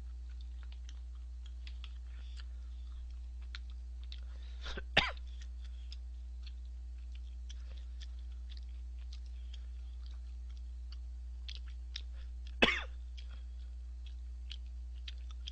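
A man chewing tteokbokki close to the microphone, with scattered small wet mouth clicks, over a steady low electrical hum. Two short, sharp, loud sounds stand out, about five seconds in and again near thirteen seconds.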